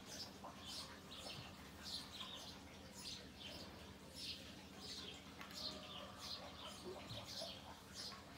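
Faint bird chirping: short, high, falling chirps repeated at about two a second, over a low steady hum.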